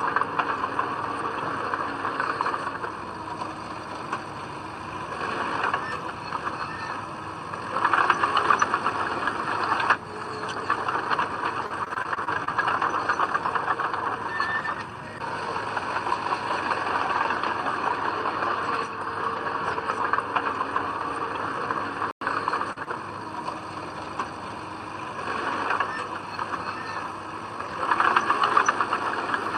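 Diesel engine of heavy earthmoving machinery running continuously under work, swelling louder twice, about a quarter of the way in and again near the end.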